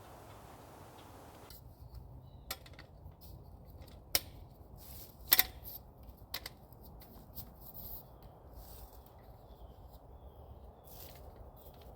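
A few sharp clicks and knocks over faint rustling, the loudest a quick double knock about five seconds in.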